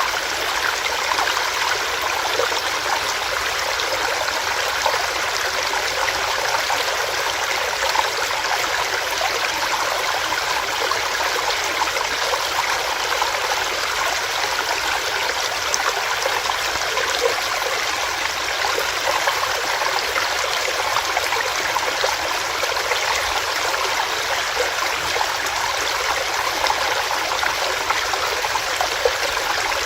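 Small stream running over rocks, a steady rush of water with light splashing and gurgles.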